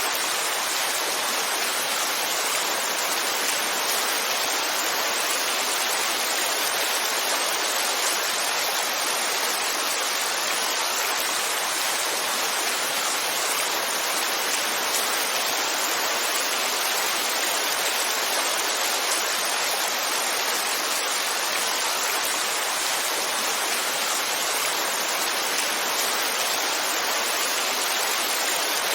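Heavy rainfall: a steady, unbroken hiss of rain with no distinct drops, thunder or changes.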